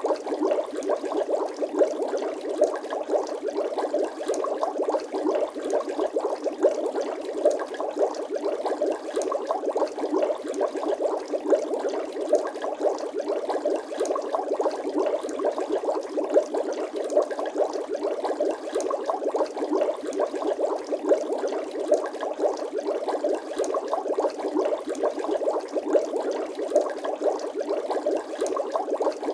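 Bubbling water sound effect: a steady, dense stream of small pops and gurgles that keeps on without a break.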